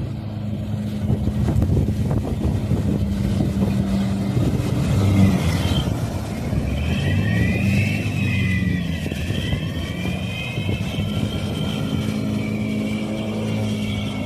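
Swamp boat's VAZ-2110 four-cylinder car engine running, its speed dipping and rising again around the middle, with a higher whine alongside.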